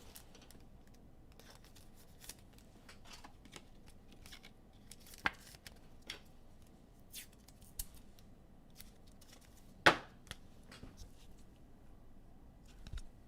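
Sports trading cards and pack wrappers being handled at close range: a scattered run of short clicks and rustles, with one sharper snap a little before ten seconds in.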